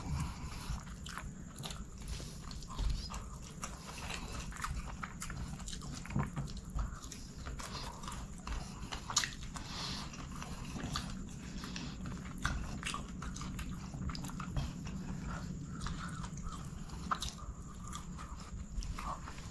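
Close-miked chewing and lip smacking of a mouthful of chicken biryani eaten by hand, with irregular short mouth clicks throughout over a steady low hum.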